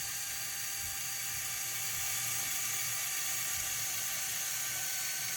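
Steady hiss of background noise, with no distinct clicks or knocks.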